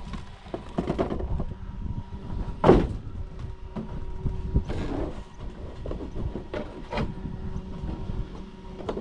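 Large RC monster truck running on a dirt track: a string of knocks and clatters with one loud thump a little under three seconds in.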